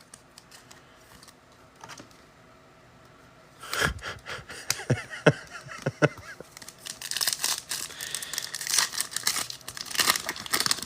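A foil trading-card pack being torn open and its wrapper crinkled, starting about four seconds in, with a few light knocks as the pack and cards are handled.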